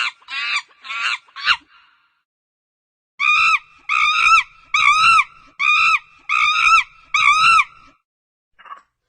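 Bird calls in two series: about five quick falling calls in the first second and a half, then after a pause about seven arched calls at an even pace, roughly two a second.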